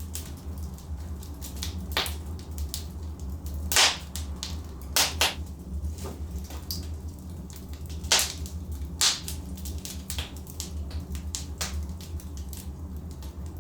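Logs burning in a fireplace, crackling: frequent small snaps over a steady low rumble, with a few louder sharp pops. The loudest pop comes about four seconds in, two more follow close together about a second later, and others come around eight and nine seconds in.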